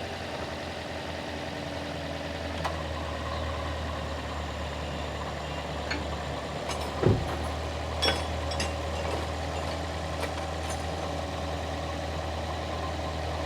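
Car engine idling steadily, with a few sharp clicks and a single louder knock about seven seconds in.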